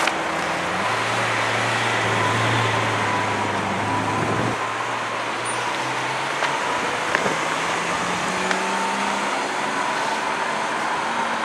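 Lamborghini Aventador V12 running at low speed as the car moves off slowly, a low, subdued engine hum over city traffic noise, with the engine note rising gently about two-thirds of the way in. The car's exhaust is unusually quiet, near silent.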